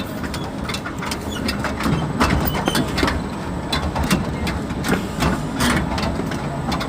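Car wash tunnel conveyor running at its maximum speed: a steady low mechanical drone with frequent irregular clicks and clacks from the chain and rollers.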